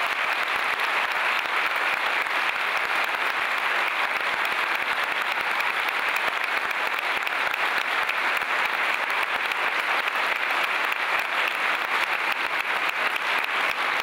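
Audience applauding, a steady, dense clapping of many hands.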